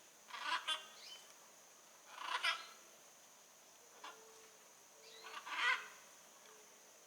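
Blue-and-yellow macaw giving three harsh, raspy squawks, each about half a second long and a couple of seconds apart, over a steady high thin whine.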